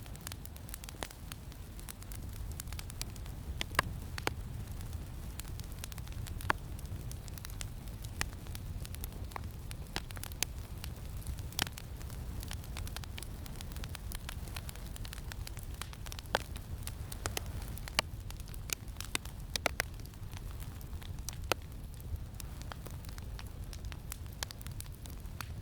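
Campfire crackling, with irregular sharp pops scattered through it, over a steady low rumble of wind.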